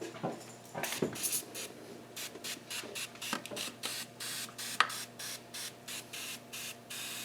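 Cleaner sprayed in a run of short, evenly spaced hissing squirts, about two and a half a second, onto old grease in the engine bay. A few knocks come in the first second or so, and there is a sharp knock about five seconds in.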